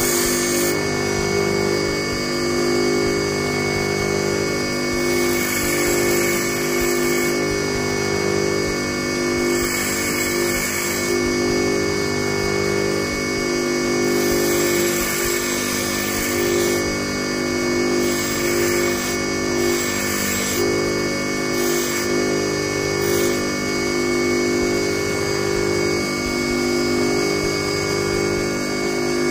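Electric bench grinder running steadily, its thin abrasive disc grinding a metal wire being shaped into a fishing hook. The grinding hiss comes and goes in several short spells as the wire is pressed to the wheel.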